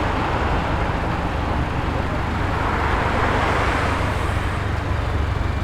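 Cars rolling past at low speed: a steady low engine rumble with tyre and road noise.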